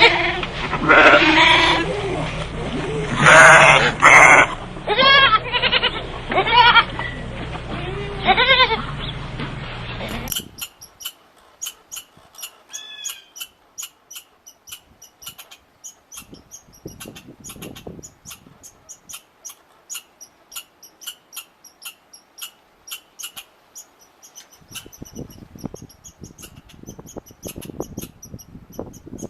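An animal bleating: a run of loud, pitched calls with a wavering pitch over a low steady hum. About ten seconds in the sound cuts to fainter, quick high chirps and ticks like small birds.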